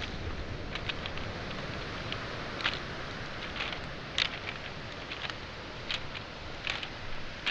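Footsteps on beach pebbles and small boulders: sharp stone clicks at irregular intervals, over a steady wash of waves on the shoreline.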